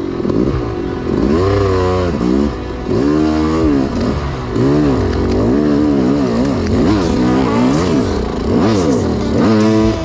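Yamaha YZ250X's single-cylinder two-stroke engine revving up and down over and over, its pitch rising and falling about once a second as the throttle is worked through a slow, difficult off-road section. Scraping and clattering comes through in the last few seconds.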